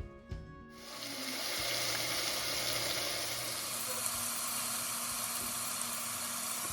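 Food sizzling steadily in hot oil in a pan. It comes in under a second in as the music stops.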